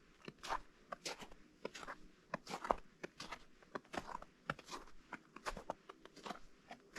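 Walking footsteps crunching on partly melted, slushy snow, a regular pace of about two steps a second.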